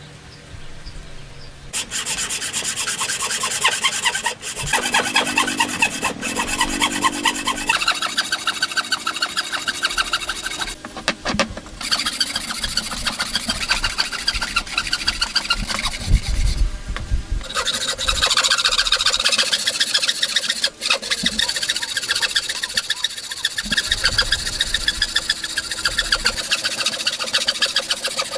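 A hand tool rasping wood in quick repeated strokes that run on with two short breaks, and a dull low thump about halfway through.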